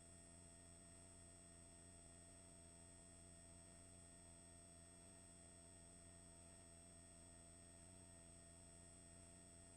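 Near silence: a faint, steady electrical hum and whine of several fixed tones from a helicopter headset intercom line, with no speech on the channel.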